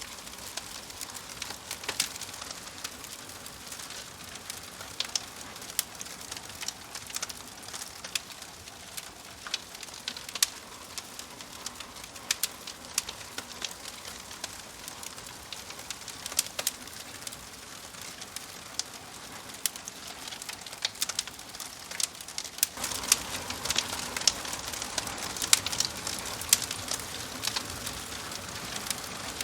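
Wood fire crackling, with many sharp irregular pops over a soft hiss; the crackle grows louder and busier about three-quarters of the way through.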